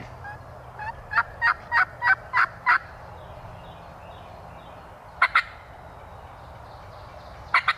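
Wild turkeys calling. About a second in comes a run of about six evenly spaced yelps, then two short calls just after five seconds and a quick cluster of calls near the end.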